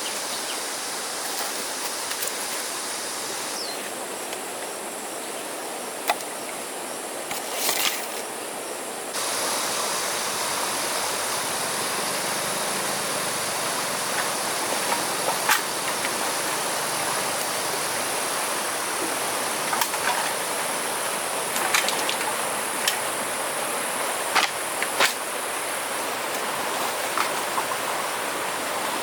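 Steady rush of flowing river water, with scattered short, sharp knocks and clicks.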